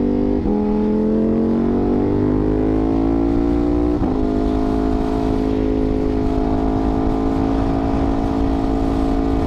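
Ducati V4 motorcycle's 90-degree V4 engine pulling under way. Its pitch climbs, then drops sharply at an upshift about half a second in and again about four seconds in, then holds at a steady cruise. A low rushing noise runs beneath.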